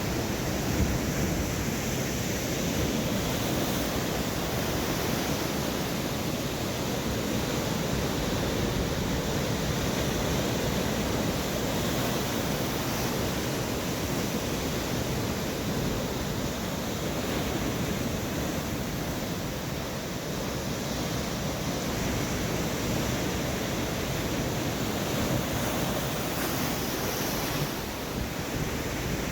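Storm waves breaking continuously against a rock breakwater: a steady, heavy wash of surf that never lets up, with wind rumbling on the microphone.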